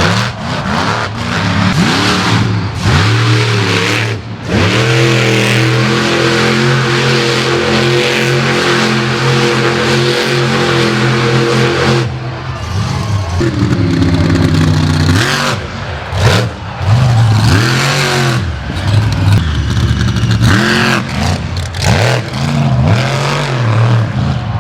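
Monster truck engine revving hard, its pitch rising and falling again and again, with a long full-throttle stretch at a steady high pitch that cuts off sharply about twelve seconds in, followed by more rapid revs up and down.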